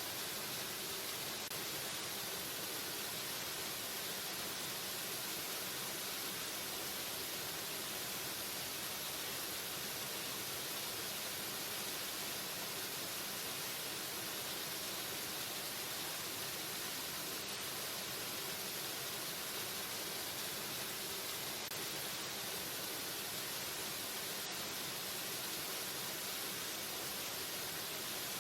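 Waterfall rushing steadily: an even, unbroken roar of falling water with no changes.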